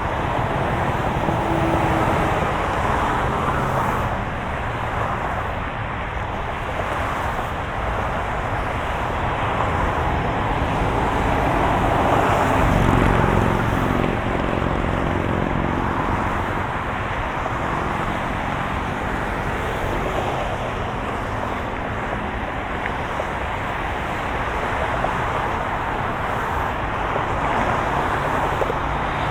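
Moving car: steady tyre and road noise with a low engine hum, swelling and easing gently.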